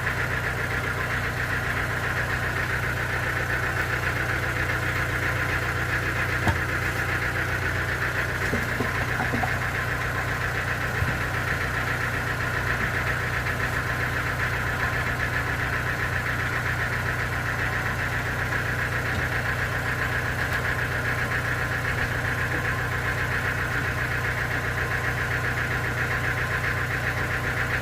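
Engine powering the sawmill, running steadily at a constant speed, with two faint knocks about a third of the way in.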